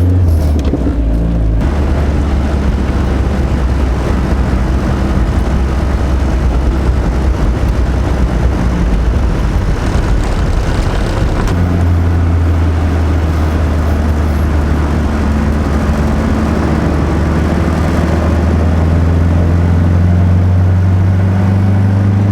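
Turbocharged 2.2-litre four-cylinder engine of a Dodge Rampage pickup running while driving, with road noise. Its note steps to a new pitch twice, about a second and a half in and again about eleven seconds in, then climbs slowly near the end as it picks up speed.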